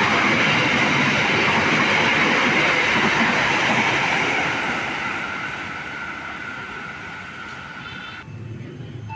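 Express passenger train running through the station at speed: a loud, steady rush of wheels on the rails that fades from about halfway through as the train moves away, then cuts off abruptly near the end.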